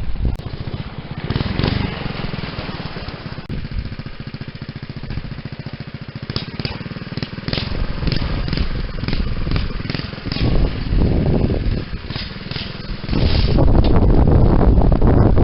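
Small mini bike engine running as the bike is ridden, its loudness rising and falling, with a string of sharp clicks midway and a loud stretch near the end as the throttle is opened or the bike comes close.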